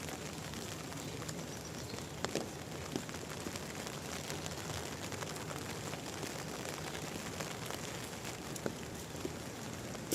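Steady rain falling, an even hiss with many small scattered drop ticks and a few louder taps about two seconds in and near the end.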